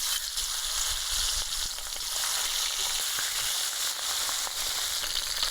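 Tangra catfish, rubbed with salt and turmeric, frying in hot oil in a pan: a steady, dense sizzle with scattered crackles and pops.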